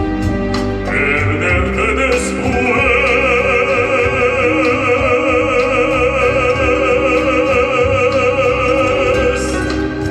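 An operatic-style singer holds one long high note with vibrato, from about a second in until near the end, over an instrumental backing.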